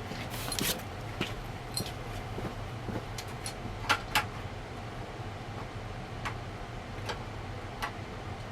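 Metal ceiling-fan mounting parts (the ball-and-socket downrod and canopy) being handled and tried together. They give scattered light clicks and knocks, with two sharper clicks close together about four seconds in, over a steady low hum.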